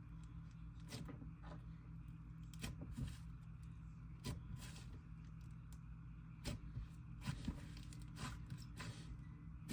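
Slime being handled and mixed: scattered soft clicks and squelches at irregular intervals, over a low steady hum.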